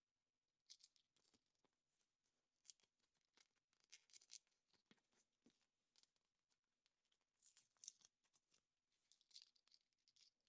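Faint crinkling and tearing with small clicks, coming in several short clusters: hands unwrapping and handling a chocolate surprise egg's foil and plastic capsule.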